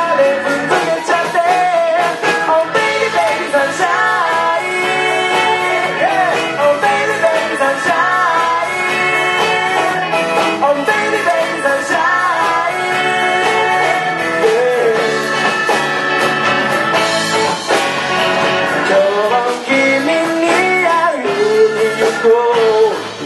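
Live band playing an upbeat rock song, with guitar, in a passage with no clear lyrics between sung verses.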